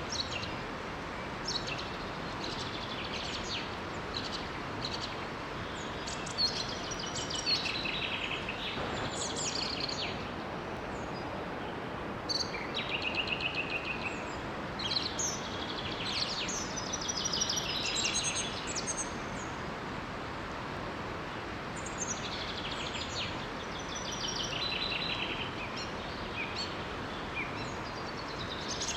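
Forest birds singing in short, repeated chirping phrases over the steady rush of a small waterfall.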